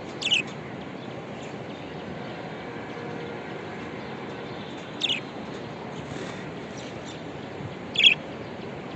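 Budgerigars giving three short, sharp chirps, one near the start, one about five seconds in and one about eight seconds in, over a steady background hiss.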